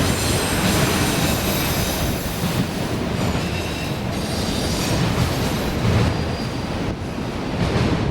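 Freight train rolling past, steel wheels running on the rails with a faint high wheel squeal.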